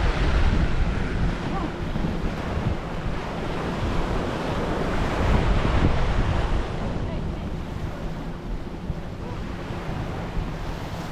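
Wind buffeting the microphone over small waves washing onto a sandy beach. The gusts ease off about seven seconds in.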